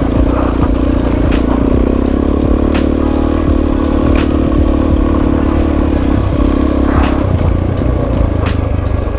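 Suzuki DR-Z400S single-cylinder dual-sport motorcycle engine running under load on a rough dirt trail, with scattered sharp knocks and clatter from the bike over the rough ground. About seven seconds in the engine note changes and drops lower.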